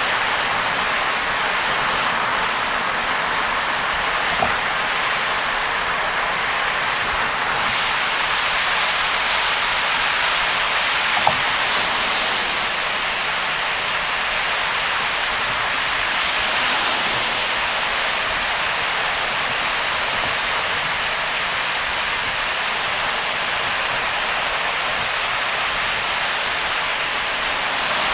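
Heavy rain on a moving car with tyre hiss from the soaked road, a steady, even rush of noise. Two faint clicks stand out, about four and eleven seconds in.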